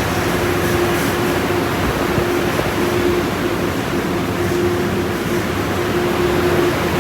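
Automatic car wash machinery running: a loud, steady rushing noise with a hum that fades in and out.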